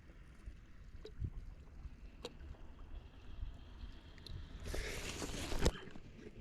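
Wind buffeting the microphone as a low rumble, with scattered light clicks and a brief rush of noise about five seconds in that ends in a sharp click.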